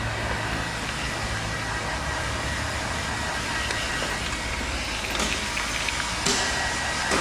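Electric blow dryer running steadily on a freshly bathed dog: a continuous whoosh of air with a thin high whine. Two light clicks come about five and six seconds in.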